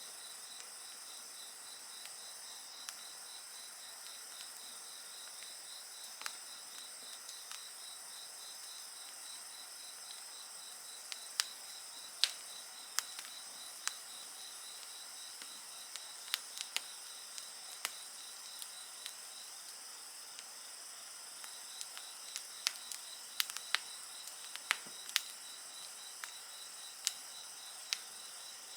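Crickets and other insects trilling steadily in several high pitches, one of them pulsing quickly, with the sharp crackles and pops of a burning wood fire scattered over it, coming in little clusters.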